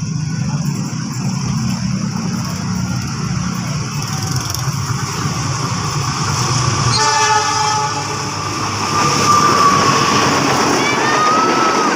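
Passenger train approaching with a low diesel rumble, then the locomotive's horn sounds one short blast about seven seconds in. The train then passes with louder running noise and a few thin high squeals near the end.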